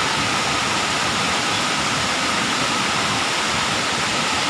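Waterfall rushing steadily: a loud, even roar of falling water with no breaks.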